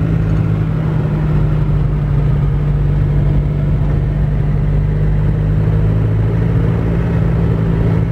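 Isuzu Panther's engine and road noise heard from inside the cabin while driving. The engine holds a steady low drone with no revving or change in pitch.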